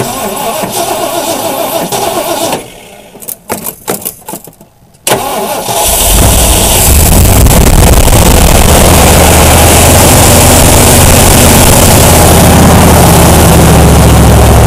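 Cold start of a 1983 Ford Bronco's 400 V8: the engine cranks and stumbles in broken bursts, catches about five seconds in, and then runs loud and steady.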